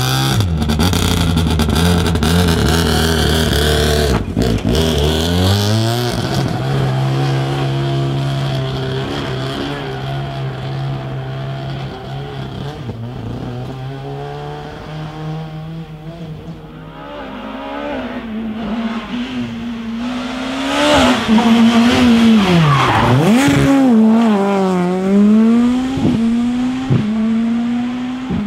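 Rally car engines at full load on a test stage. One car passes at the start, its engine note dropping and fading away. A second car then approaches and passes close, its engine rising and falling in pitch through repeated revs and gear changes, loudest about three-quarters of the way through.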